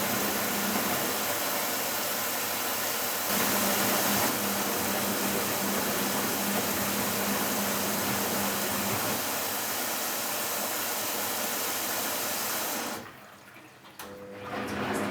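Philco Bendix W84RX washing machine with water rushing through it and a steady hum. The sound cuts off suddenly about two seconds before the end, a faint tone sounds for a moment, then the machine's noise picks up again.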